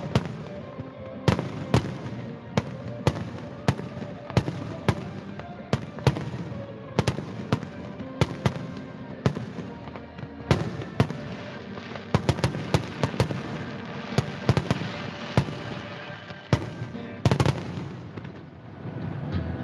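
Fireworks going off in an irregular string of sharp bangs, at times several a second, thickest a little past the middle and thinning out near the end, with music playing underneath.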